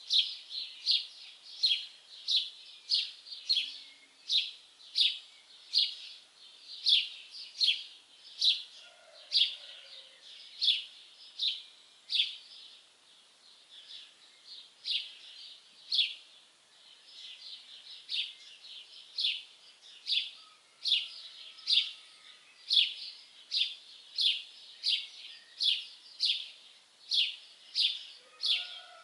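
A songbird repeating a short, high chirp that sweeps downward, about twice a second, fading for a few seconds in the middle and then picking up again. A few fainter, lower calls from other birds come in now and then.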